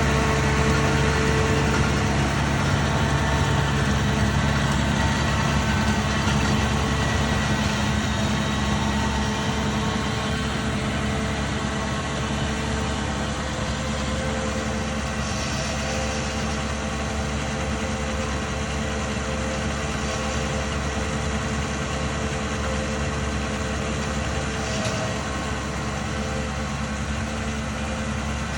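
An engine running steadily at constant speed, with a low hum and a faint machine noise over it.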